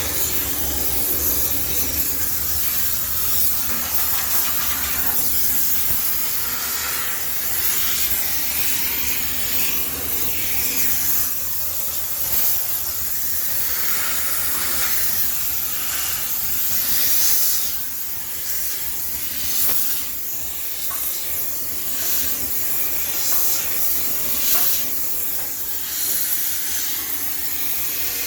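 High-pressure steam cleaner jetting steam to sterilize a laundromat washing machine: a loud continuous hiss that swells and fades every few seconds, over a low steady hum.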